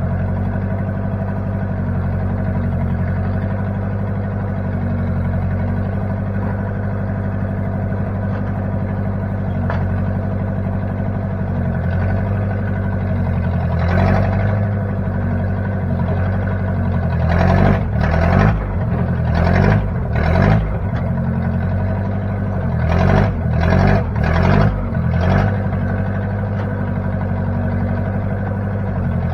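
1960 Case 540 backhoe's newly installed engine running steadily, with a series of brief louder surges in the second half.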